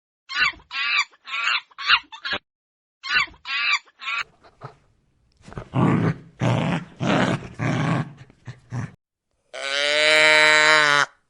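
Farm animal calls in sequence: a hen clucking in quick repeated calls, then several rough grunts, then one long, steady moo from a cow.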